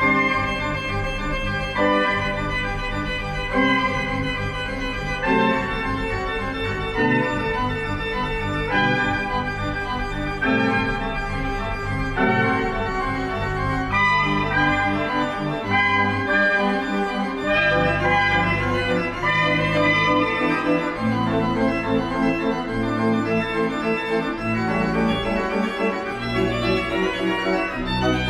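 Organ music: sustained full chords that change every second or two over a low bass line, at a steady level.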